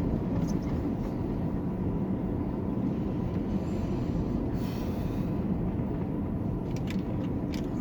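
Steady low road and engine rumble heard from inside a moving truck's cab, with a few light rattles and a brief hiss about five seconds in.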